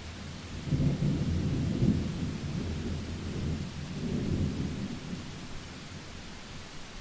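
A roll of thunder over steady rain: a low rumble starts about a second in, swells again around four seconds and dies away near the end.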